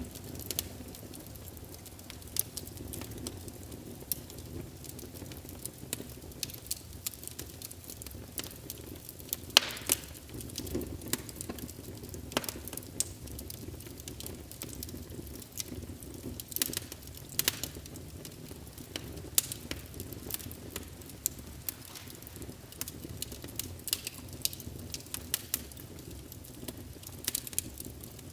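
A fireplace sound emulator speaker playing a crackling wood fire: irregular sharp pops and snaps over a steady low rumble, with a few louder snaps scattered through.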